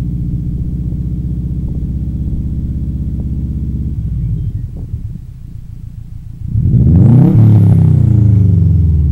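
2004 Subaru WRX's turbocharged flat-four running steadily through a Tanabe aftermarket exhaust. It drops quieter for a couple of seconds, then is revved hard about two-thirds of the way in, the pitch rising and falling back.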